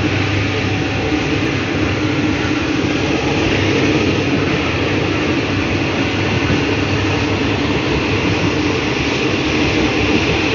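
A train running on the track, heard from inside a passenger carriage: a steady rumble and wheel-on-rail noise with a low hum, holding level throughout.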